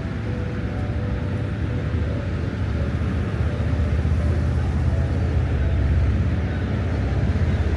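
Steady rushing outdoor noise with a deep, heavy rumble, slowly growing louder.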